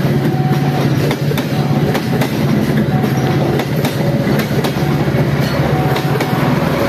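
Passenger coaches of a locomotive-hauled commuter train rolling past close by, wheels clicking over rail joints in an irregular clickety-clack over a steady low hum.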